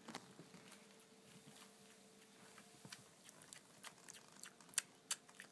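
Toothless Persian cat licking and smacking at wet cat food: faint, irregular wet clicks, with a few louder ones near the end.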